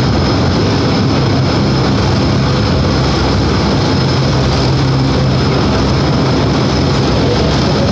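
Elevated electric railway train running along its track, heard from aboard: a steady, loud rumble of motors and wheels with a constant low hum underneath.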